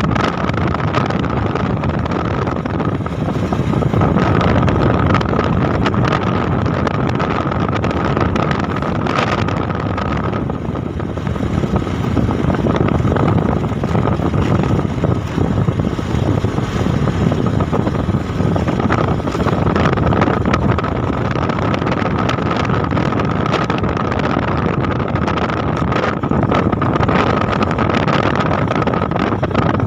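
Motorbike engine running steadily as the bike rides along, with wind buffeting the microphone. A thin steady whine sits above the rumble throughout.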